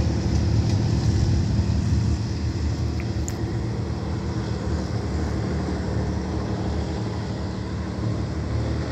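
Diesel-hauled passenger train pulling away: a steady low engine drone that steps a little quieter about two seconds in.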